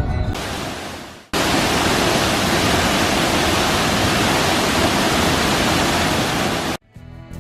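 Waterfall rushing in a heavy, steady roar of falling water for about five seconds, starting and stopping abruptly. Background music fades out before it, and strummed guitar music comes in near the end.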